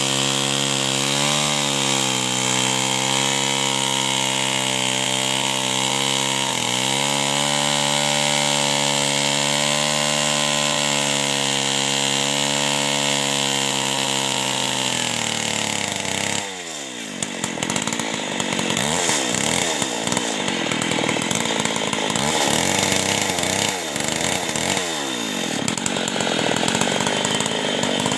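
Two-stroke chainsaw running at high revs while cutting wood: the pitch holds steady with a couple of brief dips, then a little past halfway it turns rough and unsteady, with repeated falling dips in pitch.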